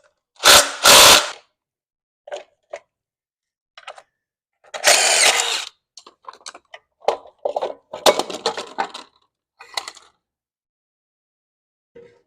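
Short bursts of a power tool loosening the clutch pressure-plate bolts on a Corvette's flywheel: two quick bursts about half a second in, and a longer one about five seconds in. These are followed by a run of light metal clicks and clanks as the clutch parts come loose.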